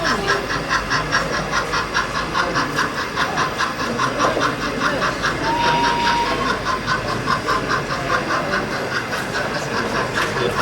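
Model train running on an exhibition layout: a sound-fitted locomotive gives an even rhythm of short chuffing pulses, about five a second. A short, thin whistle-like tone sounds briefly about halfway through.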